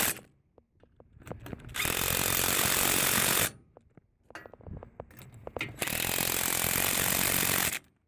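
A power tool running in two bursts of about two seconds each, with small clicks and knocks in the gaps between.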